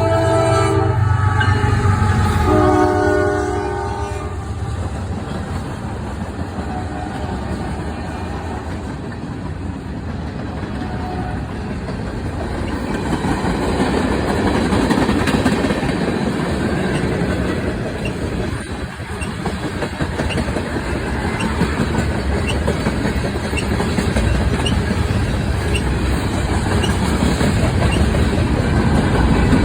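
Train horn sounding a few short blasts in the first four seconds, then the train rolling past with a steady rumble and rail clatter of its wheels.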